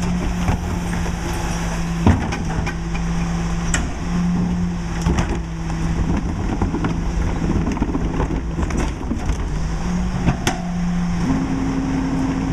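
Mack LE garbage truck's diesel engine running steadily with scattered knocks and clatter, then stepping up in pitch near the end as the engine speeds up.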